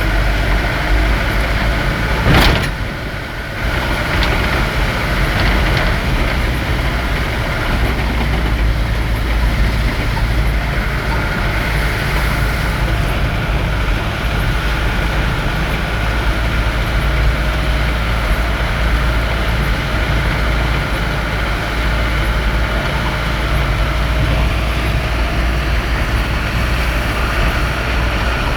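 A vehicle on the move: a steady low rumble of engine and road noise. A single sharp knock comes about two and a half seconds in.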